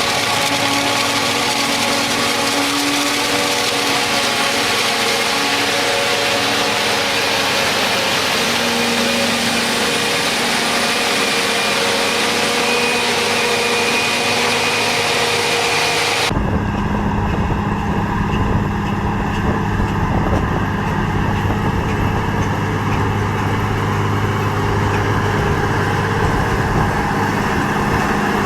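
Engines of heavy farm machinery running steadily. About sixteen seconds in the sound cuts abruptly to a different machine with a deeper, steady drone.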